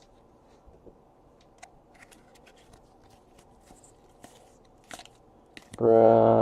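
Faint, scattered clicks and rustles of trading cards being handled and flipped through by hand. Near the end a man's voice comes in loudly with a long held sound.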